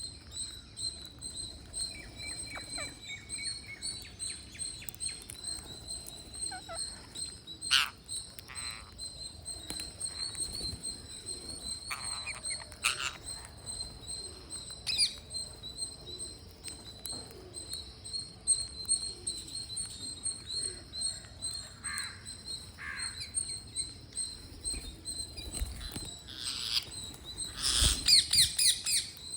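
Green parrots chirping and calling while they feed, with scattered sharp clicks and a louder burst of rapid squawks near the end. A steady high-pitched whine runs underneath.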